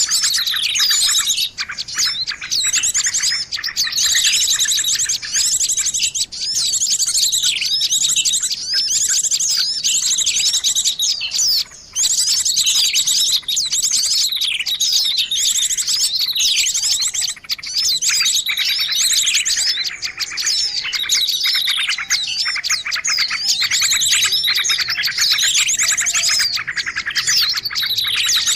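Bird-lure recording: a dense, unbroken din of many small birds chirping and trilling over one another, with fast rattling trills high up. A fainter, lower warbling call runs through the latter part.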